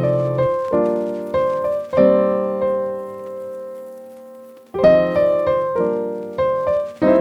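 Background music on a piano-type keyboard: a slow melody of struck notes, each ringing and fading, with a pause of a couple of seconds midway before the notes resume.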